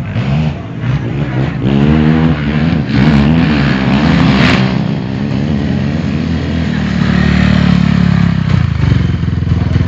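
Off-road motorcycle engines racing, revving up and down, with a short sharp surge about four and a half seconds in.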